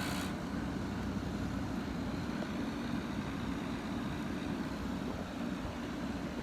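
Frigidaire 15,100 BTU window air conditioner running with its compressor and fan on: a steady low hum with even air noise. The compressor is running on and will not cycle off, which the owner takes for a fault in the unit.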